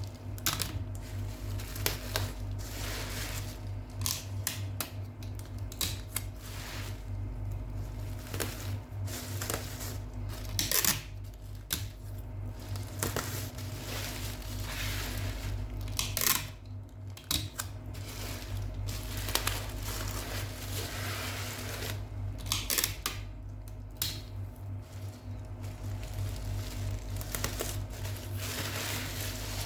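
Irregular clicks, taps and rustling of small objects being handled, over a steady low hum.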